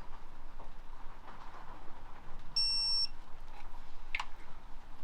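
A single short, high electronic beep about two and a half seconds in, with a few faint clicks of handling before and after it.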